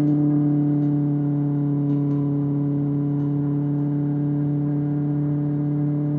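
Kawasaki ZX-6R inline-four engine through an SC-Project SC-1R exhaust, running at a steady engine speed with an even, unchanging pitch.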